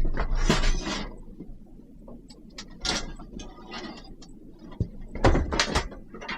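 An irregular series of knocks, clicks and scrapes from hard objects being handled, loudest in the first second and again about five seconds in.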